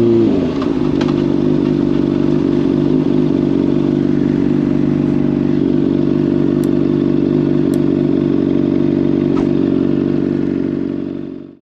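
Honda CBR600RR inline-four through a slip-on exhaust, revs dropping to idle right at the start, then idling steadily. The sound cuts off suddenly near the end.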